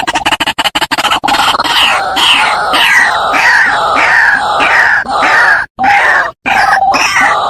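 White-breasted waterhen calling: a loud, repeated series of harsh croaking notes, each falling in pitch, about two or three a second, after a rapid run of short pulses in the first second.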